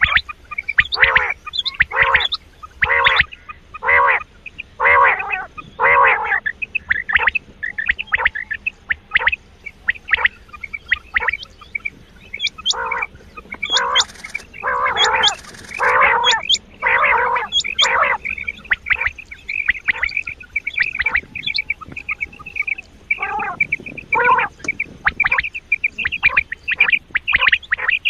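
Recorded quail calls played as a hunting lure: short harsh calls repeating about once a second, with sharp high chirps mixed in through the middle and a lull with fewer calls a little past halfway.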